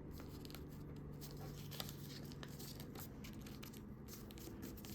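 Faint rustling and crinkling of a folded sheet of paper being handled and creased, with scattered light ticks.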